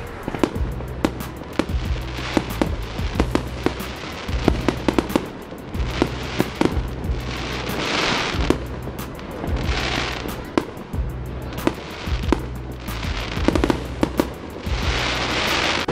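Fireworks bursting some distance away: a steady run of sharp bangs and pops all the way through, with several stretches of hissing crackle.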